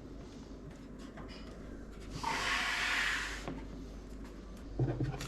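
Handling noise from PC parts being worked on: a scraping hiss of about a second, a little after two seconds in, then a soft knock near the end.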